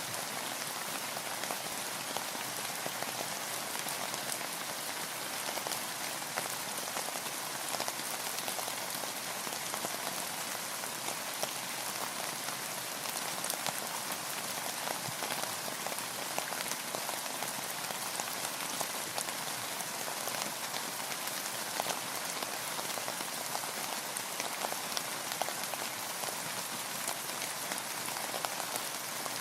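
Steady rain falling on a boat, with a dense patter of individual drops.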